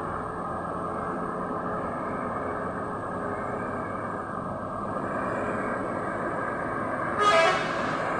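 Heavy truck's diesel engine running steadily as it climbs a steep incline, a low even rumble. About seven seconds in, a brief loud pitched blast cuts through it.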